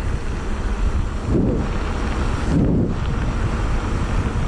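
Wind buffeting the microphone during a mountain bike ride, with a steady low rumble and two short low sounds about a second and a half and two and a half seconds in.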